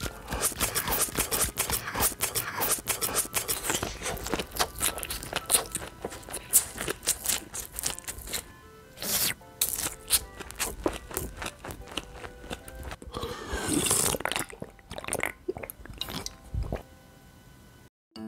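Rapid, continuous crunching and chewing eating sounds, with background music. The sound stops suddenly near the end.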